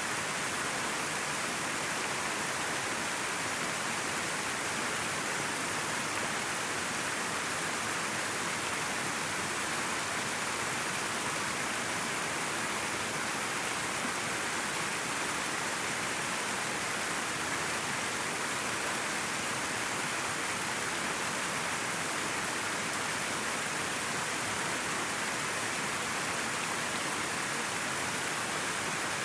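River water flowing and rushing steadily, an even hiss of moving water.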